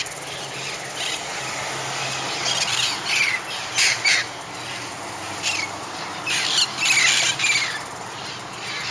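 Flock of wild green parrots squawking, many short calls that drop in pitch overlapping and coming in bunches.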